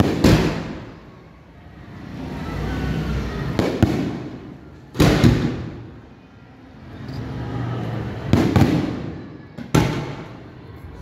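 Aerial firework shells bursting overhead: a series of sharp bangs, some in quick pairs, each trailing off in a rolling rumble.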